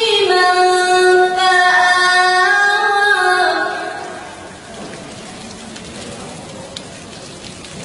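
Qur'an recitation in melodic tajweed style: the reciter draws out the word 'yatīman' with gliding pitch ornaments, fading out about four seconds in. After that only a steady low hiss remains.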